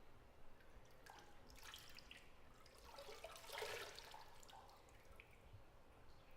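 Faint bathtub water: scattered drips and two soft sloshes of water, the louder one about three and a half seconds in.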